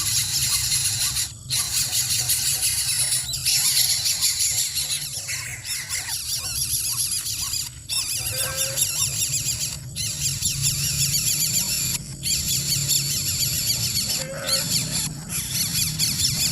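High-pitched animal squealing in a dense, continuous stream, broken by brief gaps about every two seconds, with a low steady hum underneath.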